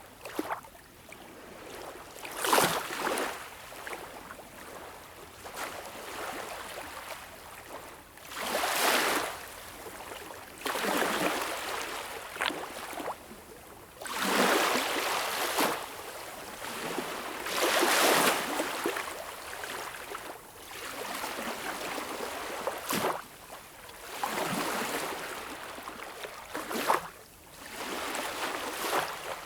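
Small, calm waves lapping and washing onto a beach, each one a soft splash and hiss that swells and fades, arriving every few seconds.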